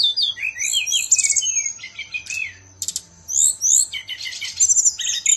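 Sikatan rimba dada coklat (brown-chested jungle flycatcher) singing a fast, varied song of clear whistled slurs and quick trills, pausing briefly about three seconds in. A faint steady hum lies underneath.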